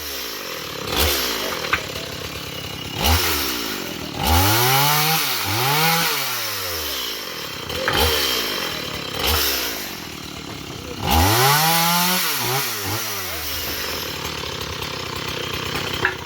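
Two-stroke chainsaw revved up and down about seven times, its pitch rising and falling with each burst of throttle, then settling to a steady idle near the end.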